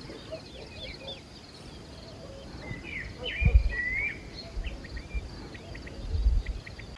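Small songbirds chirping and trilling, with a brighter run of song about halfway through, over a low rumble that swells briefly in the middle and near the end.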